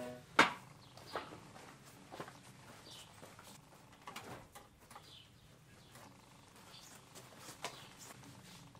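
Quiet outdoor ambience: a small bird gives short falling chirps every couple of seconds. Scattered knocks and clicks sound among them, the loudest a sharp knock about half a second in.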